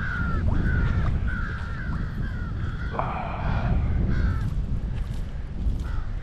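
A bird calling over and over, short arched calls about two a second that stop about four seconds in, with one more near the end. Heavy wind rumble on the microphone throughout, and a single click about three seconds in.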